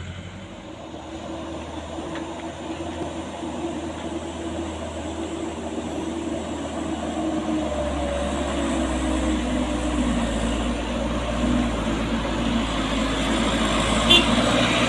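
Heavy truck engine running under load on a steep climb, its note wavering and growing steadily louder as it comes closer.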